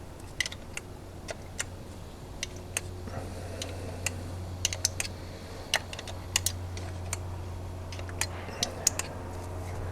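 Hand-pumped oil can clicking irregularly, many sharp ticks, as oil is squirted onto camshaft bearing journals. A steady low hum runs underneath.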